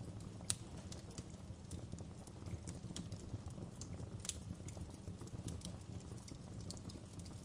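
Wood fire crackling: irregular sharp pops and snaps over a steady low rumble, with louder pops about half a second in and about four seconds in.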